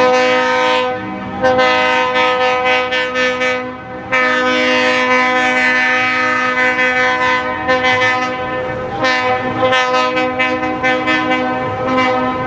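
Train horn sounding in long blasts with several notes at once, broken off briefly about a second in and again about four seconds in.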